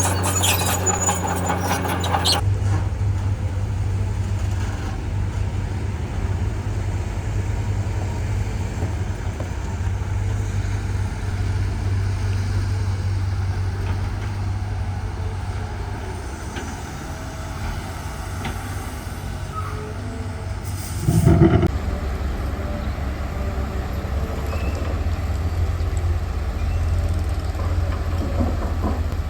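Heavy diesel earthmoving machinery running steadily with a low drone. About two-thirds of the way in there is one short, loud burst.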